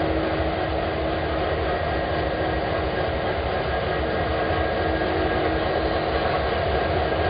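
Freight train with diesel locomotives, a steady low rumble with a constant hum running through it.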